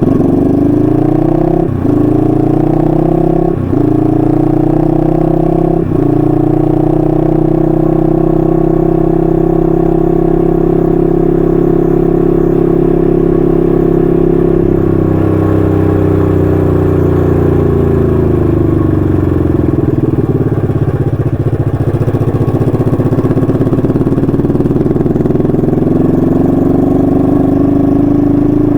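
1968 Honda CL250's 250cc parallel-twin engine running through its stock muffler while riding: it pulls up through the gears with three quick upshifts in the first six seconds, settles into a steady cruise, eases off past the middle and picks up speed again near the end.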